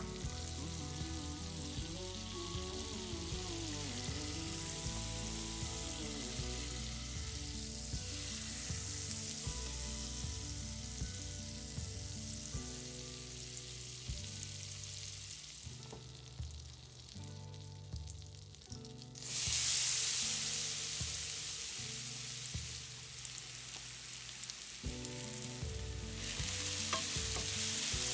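Butter sizzling as it melts in a hot nonstick frying pan. Two-thirds of the way in, a much louder sizzle starts suddenly as diced apples go into the hot butter. Near the end they are stirred with a spatula.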